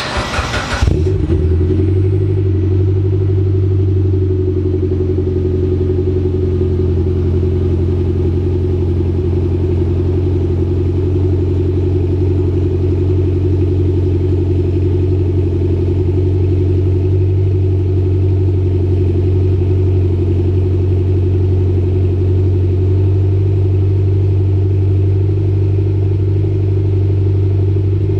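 2014 Mitsubishi Lancer Evolution X GSR's turbocharged 2.0-litre four-cylinder on a cold start through an HKS Hi-Power dual cat-back exhaust. It catches about a second in with a brief flare, then settles into a steady cold idle.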